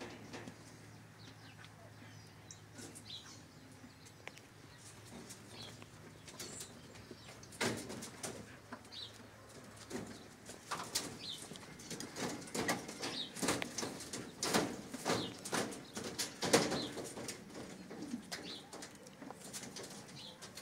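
Bird cooing over a low steady hum. From about a third of the way in, a rapid, irregular run of sharp clicks and rattles takes over and grows loudest near the end.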